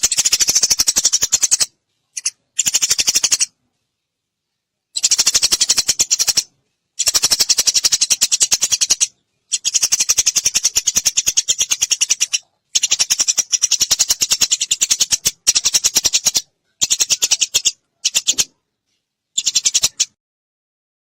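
Eurasian tree sparrow chattering: fast runs of short, high chirps in bursts of one to three seconds with brief silent gaps, stopping shortly before the end.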